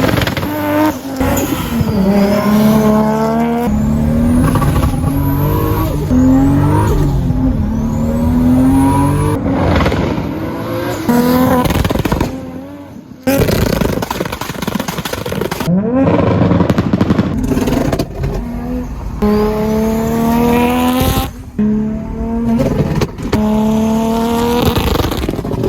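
Modified MK4 Toyota Supra's built inline-six with a big single turbo, accelerating hard in a string of short edited clips: the engine note climbs in pitch again and again through the revs, broken by sudden cuts.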